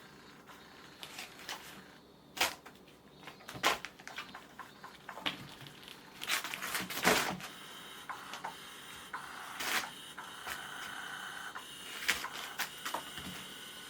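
Kittens playing with toys: irregular clicks, knocks and rattles with bursts of scrabbling. A steady faint hum joins about eight seconds in.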